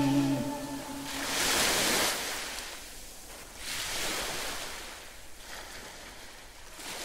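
Ocean surf: waves breaking and washing ashore, swelling and easing about every two to three seconds.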